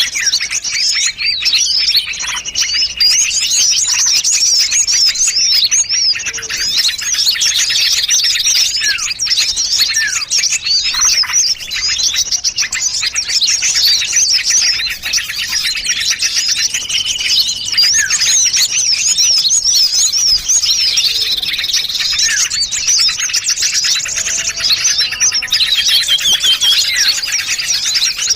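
A dense, unbroken chorus of small songbirds chirping and trilling over one another, many quick rising and falling notes at once. It is a bird-lure recording that layers the calls of many small bird species to draw birds in.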